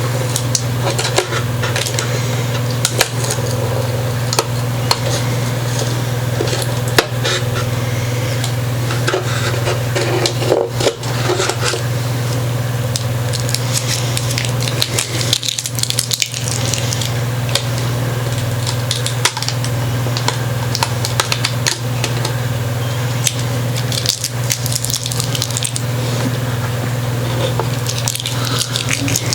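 Small clicks, snips and scrapes of hand work on the instrument, such as clipping off toothpicks flush with the surface and pulling away tape, over a steady low hum.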